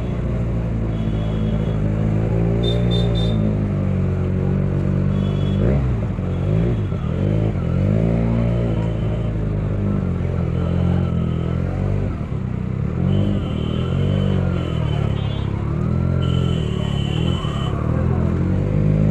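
Benelli TNT 300's parallel-twin engine running through its loud exhaust while being ridden, the pitch climbing and dropping several times as it revs and shifts. Several short high beeps sound over it.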